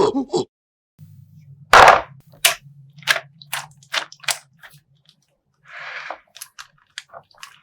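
A plastic slime bag popping with one loud sharp bang about two seconds in, followed by a series of short crisp crackles as the plastic is handled and torn open.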